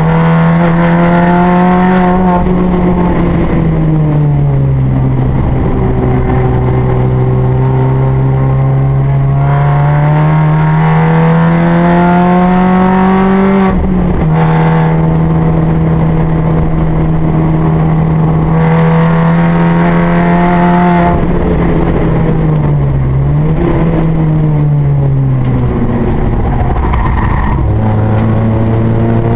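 Mini race car engine at high revs on track, the note holding steady, then falling and climbing again several times as the driver lifts and changes gear, with a brief break about fourteen seconds in.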